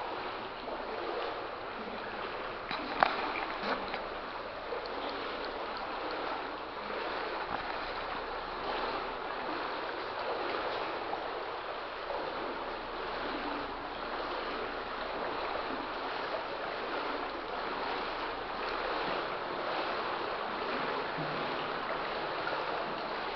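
Flood water sloshing and splashing around legs wading through it, a steady churning of water, with one sharp splash or knock about three seconds in.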